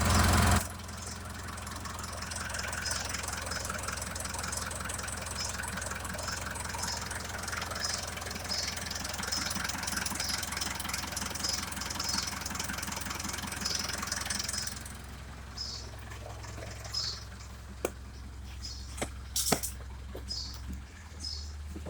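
Mitsubishi Triton 2.5-litre four-cylinder turbo diesel engine running at idle, steady; about 15 seconds in it settles quieter, and a few sharp clicks come near the end.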